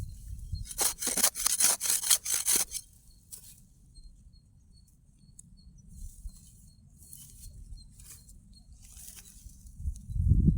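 A quick run of rustling, scraping strokes lasting about two seconds. After it comes a quiet stretch with a faint, short, high note repeating a couple of times a second, and a low rumble starts near the end.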